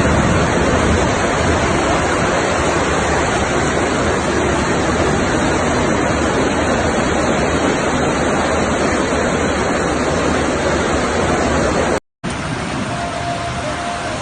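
Floodwater rushing steadily down a street in a flash flood. About 12 seconds in, the sound drops out briefly and changes to a steady heavy rain.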